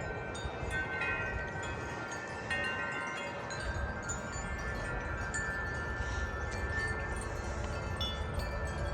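Wind chimes ringing in the wind, many overlapping notes struck again and again and left to ring on, over a low rumble of wind.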